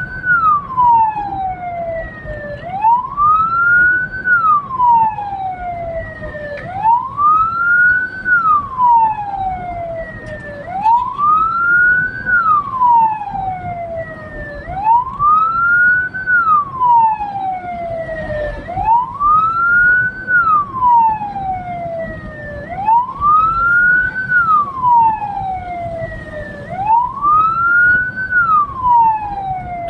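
Hearse's electronic siren wailing in a slow, even cycle, each wail rising quickly and then sliding slowly down, repeating about every four seconds, with vehicle road noise underneath.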